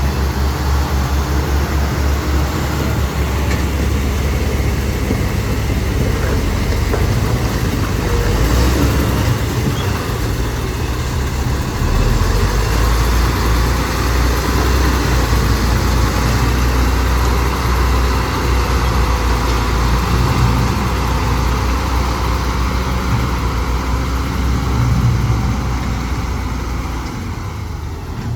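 Heavy earthmoving machines' diesel engines running steadily, with a deep, low engine sound throughout that eases off slightly near the end.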